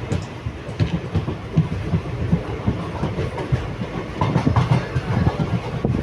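Train running along the track, its wheels clattering over the rails with a low rumble and uneven knocks.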